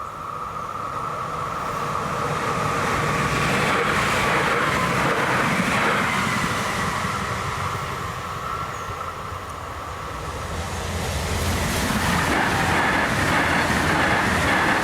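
Train passing over a level crossing. It swells to loud over the first few seconds, eases off around the middle, then grows loud again near the end.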